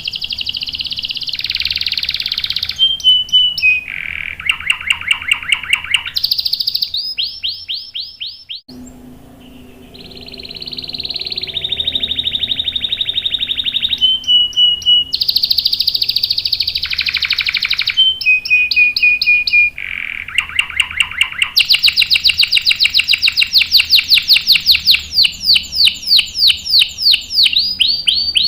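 Domestic canary singing long rolling trills, switching between sustained rolls and rapid runs of repeated notes. The song fades briefly about a third of the way through, then picks up again.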